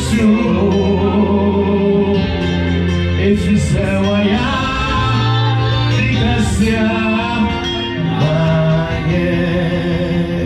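Gospel worship song sung in an African language by a singer, with instrumental accompaniment of long held notes and a bass line.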